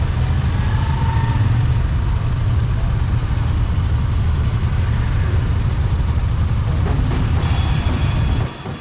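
Steady low rumble of a motorcycle on the move, dropping sharply and cutting off near the end.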